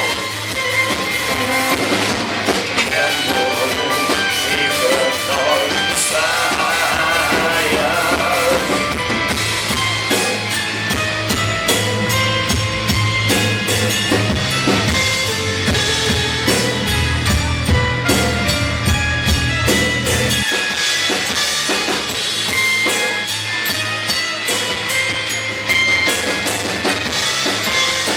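Live band playing an instrumental passage of a rock song, led by a drum kit with bass drum and snare over a deep low part that drops out about two-thirds of the way through.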